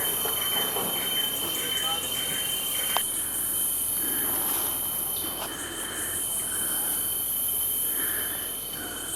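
Tropical forest insect chorus: a steady, high-pitched shrill with a thin, unbroken whine beneath it.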